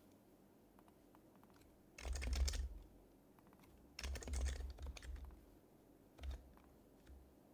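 Typing on an HHKB Professional Hybrid Type-S keyboard with its quieted Topre switches: a quick run of keystrokes about two seconds in, a longer run a couple of seconds later, then a few single presses near the end.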